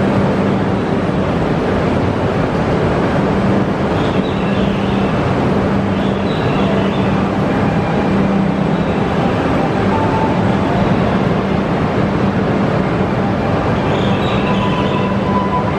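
Tohoku Shinkansen train moving alongside the platform: a steady rumble of running noise with a low hum that comes and goes.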